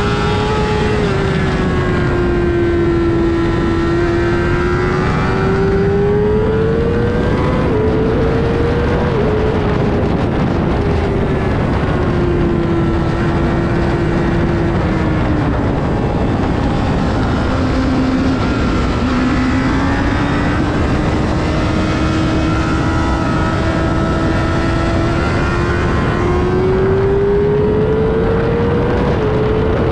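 Sportbike engine under hard track riding, heard onboard over a steady rushing noise. Its pitch climbs and drops sharply at upshifts about 8 and 9 seconds in, falls away in the middle as the bike slows for a corner, then climbs steadily again before another shift near the end.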